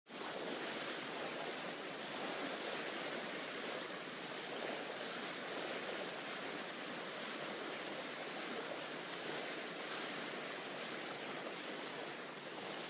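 A steady, even wash of sea water, with no distinct strokes or changes.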